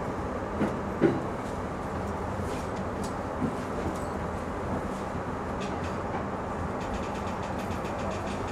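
E235-series electric commuter train running slowly along the track, heard from inside the front of the train: a steady rumble with a few sharp knocks in the first four seconds, the loudest about a second in.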